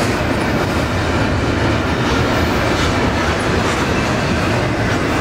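Double-stack container well cars rolling past, their steel wheels running on the rails in a steady, loud, unbroken noise.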